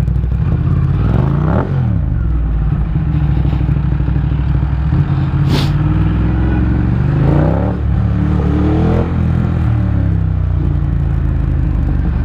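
Motorcycle engine running while riding in heavy traffic, with the engine note of it and of nearby vehicles rising and falling around two seconds in and again from about seven to nine seconds. A single sharp click about five and a half seconds in.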